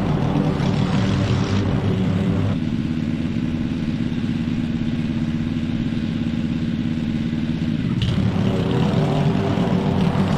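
Petrol lawn mower engine running steadily under load. From about two and a half seconds in until about eight seconds the sound turns duller, then it brightens again.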